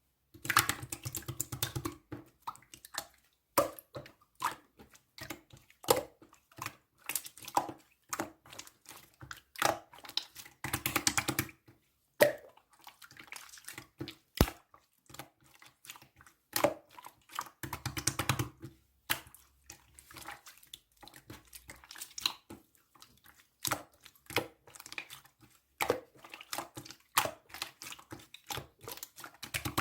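Slime being squeezed, stretched and pressed by hand: irregular wet squishes and sharp little clicks and pops as air pockets burst, with longer bursts of squishing now and then.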